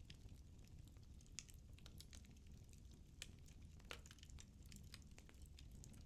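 Firewood burning in a fireplace, crackling faintly with many small scattered pops and a few sharper ones, over a low steady rumble.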